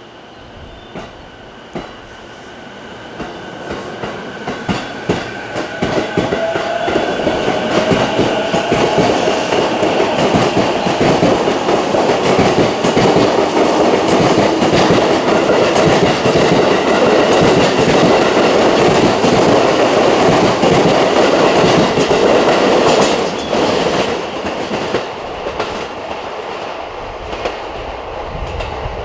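Electric commuter train with VVVF inverter drive running past. It brings a steady inverter-motor whine with a faint rising tone and rapid rail-joint clicks. It builds over the first several seconds, is loudest through the middle, and drops off about 23 seconds in.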